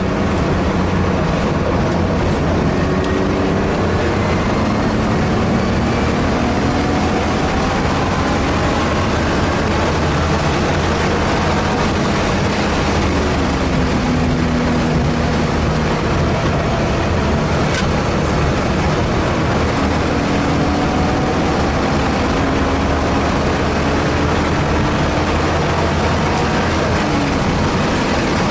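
A car's engine is heard from inside the cabin at track speed under heavy road and wind noise. Its pitch climbs and falls again and again as the car accelerates, shifts and brakes through the corners.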